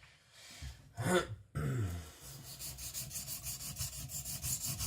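Kiridashi blade stroked back and forth flat on a wet, coarse 220-grit Shapton stone, starting about two seconds in: a fast, even rhythm of gritty scraping as the stone grinds steel off the flat. About a second in there is a short throat-clearing sound.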